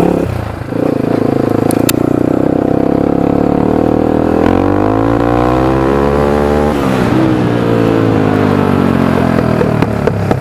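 Honda 300EX four-stroke single-cylinder ATV engine through an FMF full exhaust, revved hard. It holds a steady high note for about four seconds, then the pitch sweeps down and back up, and falls away gradually over the last few seconds as the throttle comes off.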